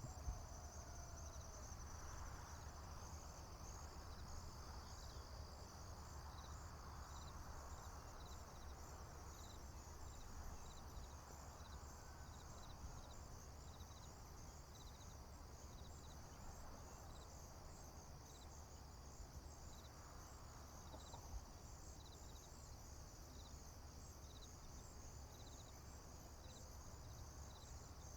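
Faint chorus of crickets and other insects: a steady high trill with a short chirp repeating at an even pace, over a low steady rumble.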